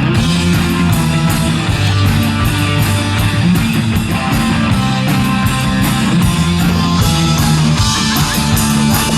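Rock music: an instrumental stretch of electric guitar over a steady drum beat, with no singing.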